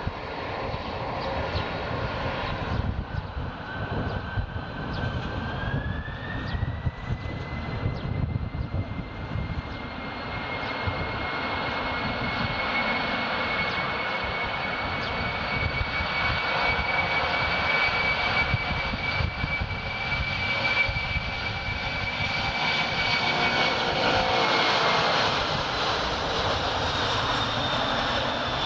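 Jet engines of a Japan Airlines Boeing 767-300ER running with a high whine over a rumble. The whine rises in pitch about six seconds in and then holds steady. The sound grows louder toward the end and the pitch drops slightly as the aircraft passes.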